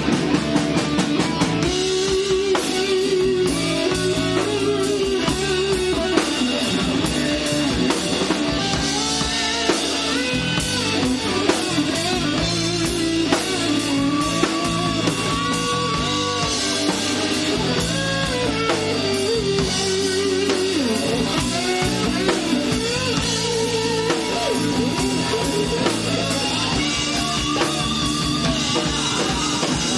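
Rock band playing live, with guitar and drum kit carrying an instrumental passage between sung lines.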